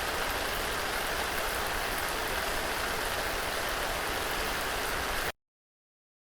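Steady rain falling, an even hiss of drops, that cuts off abruptly about five seconds in to dead silence.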